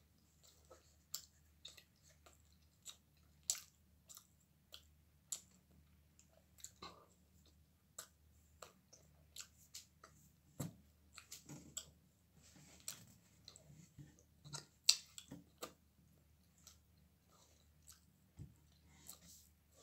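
A person chewing pizza crust, with faint irregular wet clicks and lip-smacks from the mouth; the loudest smack comes about fifteen seconds in.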